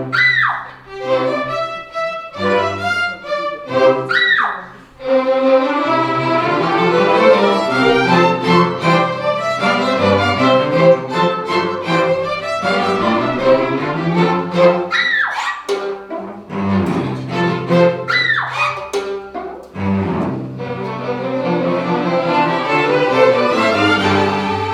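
Chamber string orchestra playing, violins, cellos and double bass in sustained, overlapping lines, broken by a few sharp accented attacks.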